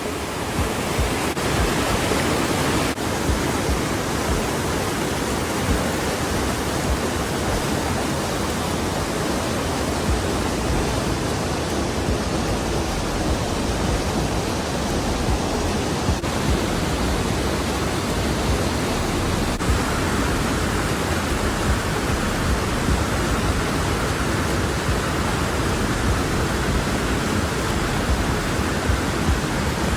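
Waterfall: a steady, unbroken rush of falling water, its tone turning a little brighter about two-thirds of the way through.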